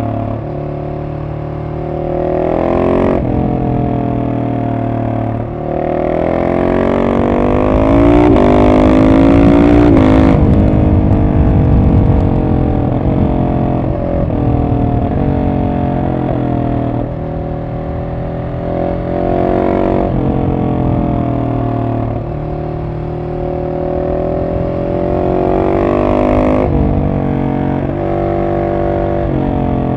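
Husqvarna 701 SM single-cylinder engine through a de-catted Arrow exhaust, revving up and down under a riding load. The pitch climbs through several accelerations and drops suddenly a few times, like gear changes, with stretches of falling revs in between.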